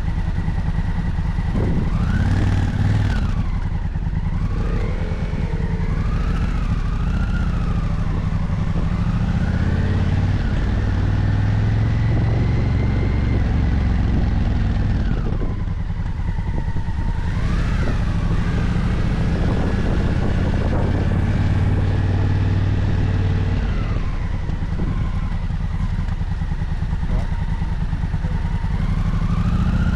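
Motorcycle engine running on the move, its pitch rising and falling again and again as the throttle opens and closes. There is a brief easing-off about halfway through.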